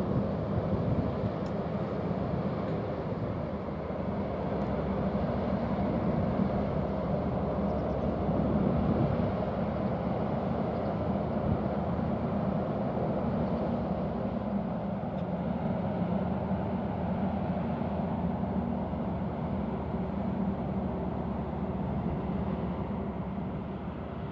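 Steady low drone of a ship's diesel engine, with a constant hum under an even rumble.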